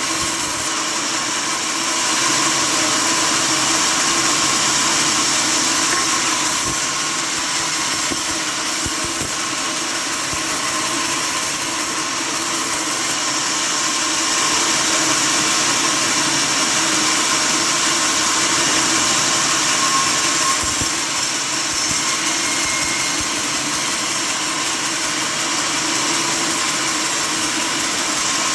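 Sawmill saw running steadily, a loud continuous machine noise splitting timber.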